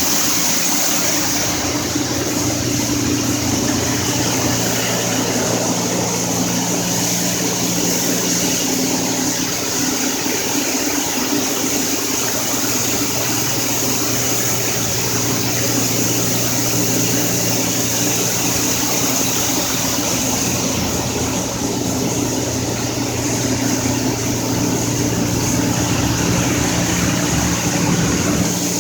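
Automatic car wash machinery running steadily: a continuous low mechanical hum under an even hiss of spraying water.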